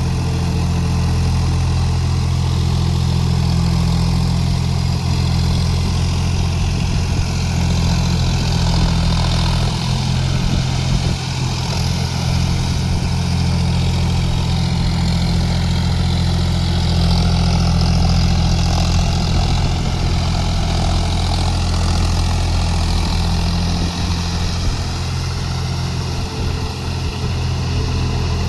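John Deere 5050D tractor's three-cylinder diesel engine running steadily at an even pitch.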